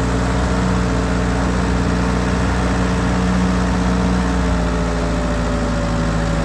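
1948 Ford 8N tractor's four-cylinder gasoline engine running under way with a steady drone, its pitch easing down slightly near the end.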